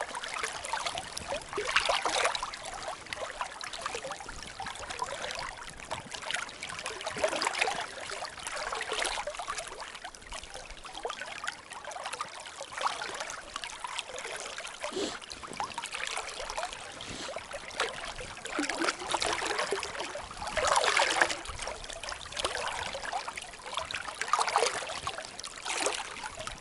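River water running and trickling, with irregular louder swells every second or two.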